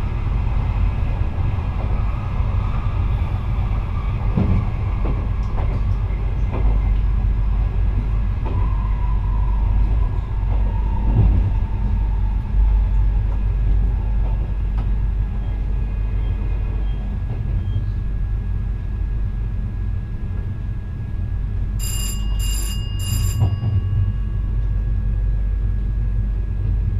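VIRM double-deck electric train running, heard from the driver's cab: a steady low rumble of wheels on rail. A faint whine slowly falls in pitch in the first half, and four quick bell-like rings sound near the end.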